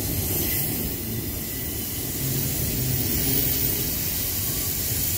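Steady low rumble of diesel freight locomotives running in the distance, under a constant hiss.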